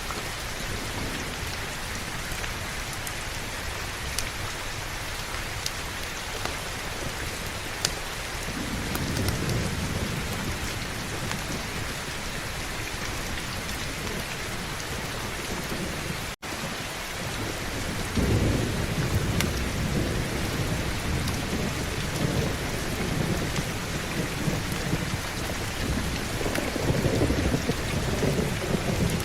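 Heavy rain falling in a steady hiss, with low rolling thunder rumbling in about eight seconds in and again more strongly from about eighteen seconds on. The sound cuts out for an instant a little past halfway.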